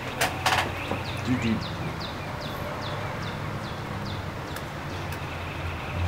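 A songbird singing a run of about ten quick, evenly spaced whistled notes, each sliding down in pitch, over a steady low hum. A few sharp clicks or knocks sound right at the start.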